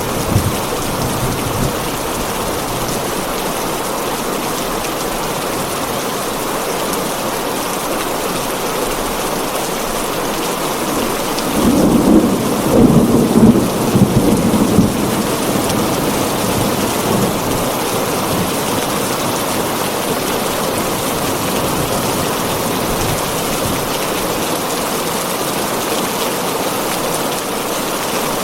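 Heavy rain falling steadily on a tin roof. A rumble of thunder rolls in about twelve seconds in, peaks over the next few seconds and fades by about fifteen seconds.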